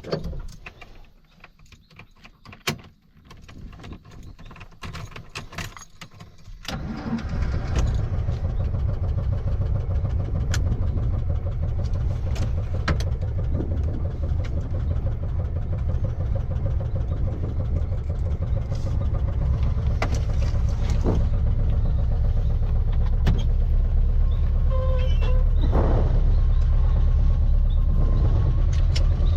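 A few clicks and rattles, then the 1700cc air-cooled flat-four engine of a VW Baja Bug starts suddenly about seven seconds in and keeps running with a steady low rumble that grows slightly louder toward the end.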